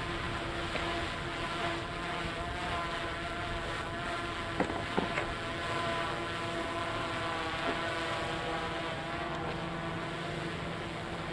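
Tugboat's diesel engine droning steadily as the tug pushes a barge along the river, with a few sharp clicks about halfway through.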